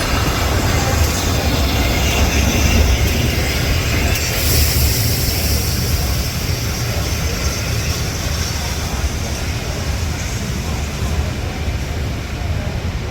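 Steam-hauled passenger train behind A1 Peppercorn 60163 'Tornado' running past, a loud steady rumble of the train on the rails.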